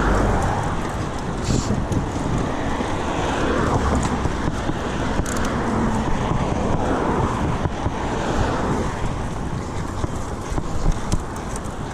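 Steady road traffic: passing cars' engines and tyres, mixed with wind rumbling on the microphone of a moving bicycle.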